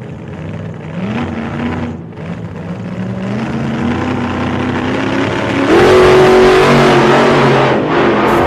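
An engine accelerating hard, its pitch climbing in several steps and growing louder, at its loudest about six seconds in.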